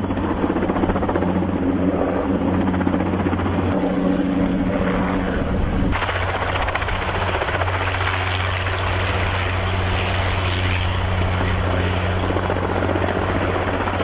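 Helicopter running steadily, with a continuous low rotor and engine drone over broad rushing noise. The sound shifts abruptly about six seconds in.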